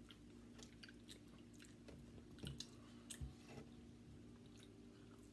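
Faint chewing and mouth sounds of people eating soft crescent-roll-wrapped sausages and fries, scattered small smacks and clicks, over a steady low hum.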